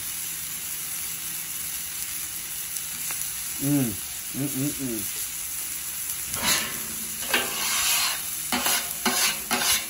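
Thin flour-dredged steak cutlets, filet medallions and hash browns sizzling on a hot flat-top griddle: a steady frying hiss. From about six seconds in, a run of short sharp scraping strokes cuts across it.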